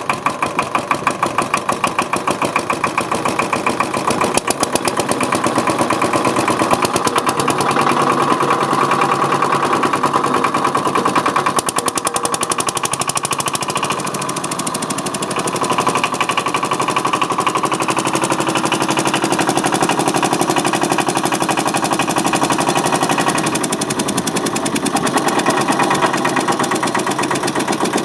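Hatz E85G single-cylinder diesel stationary engine running with its throttle opened, a rapid, even train of firing strokes. The beat picks up over the first several seconds, eases briefly about halfway through, then holds steady.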